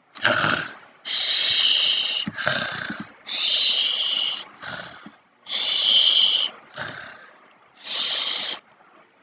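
Snoring, four regular cycles of a short rasping intake followed by a longer breathy hiss, about one every two and a half seconds, like a sleeping-character sound effect.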